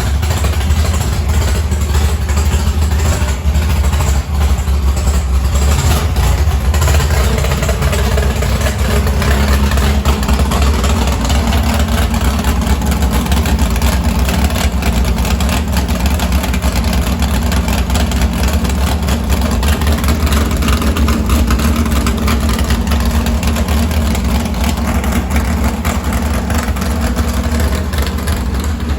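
1967 Ford F-250 engine running steadily at idle through new stainless headers, on its first run after the headers and intake were fitted.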